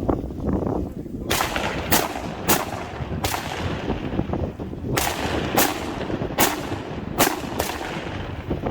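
Rifle shots fired in a quick string: about nine sharp cracks, each with a short echo, four in the first half, a pause of over a second, then five more. A steady low rumble runs underneath.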